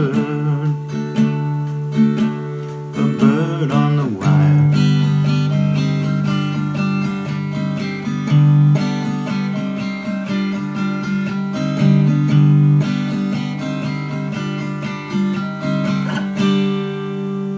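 Acoustic guitar playing the closing bars of a folk song, picked and strummed over held chords, then ending on a final chord that rings out near the end.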